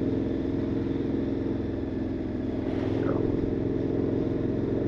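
KTM 1290 Super Adventure S V-twin with a Wings titanium exhaust, running steadily under way on the road, its note picking up slightly about halfway through.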